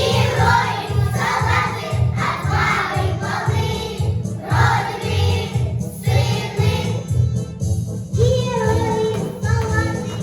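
Children's vocal group singing in chorus over a backing track with a steady beat. The voices drop out for a moment about seven seconds in, then come back in over the beat.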